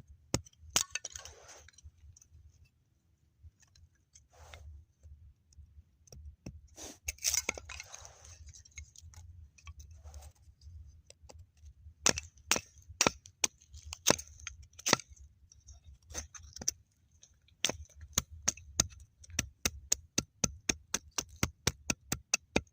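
A run of sharp cracks and clicks at irregular spacing, a few at first and then coming quickly from about halfway through.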